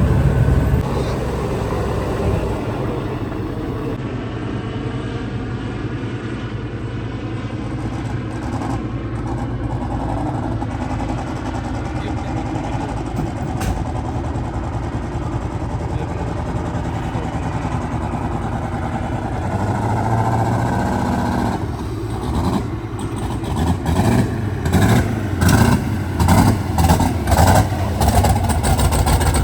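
V8 engine of an LS-swapped twin-turbo limousine running steadily, then revved in a string of short blips, about one a second, near the end.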